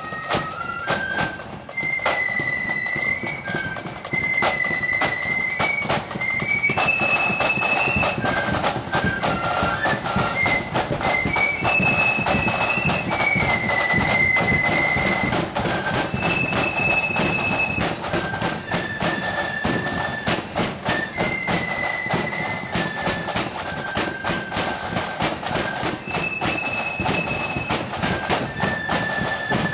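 Marching flute band playing a tune: flutes carry a high melody in unison over drums beating time.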